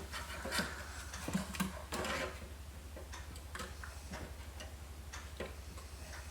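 Faint, irregular clicks and taps of a PC expansion card being handled and slid into a slot in a computer case, with a slightly louder scrape about two seconds in.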